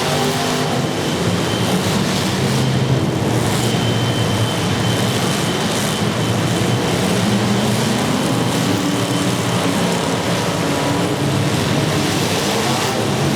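Demolition derby car engines running hard and revving, their pitch rising and falling over a dense, loud mechanical din.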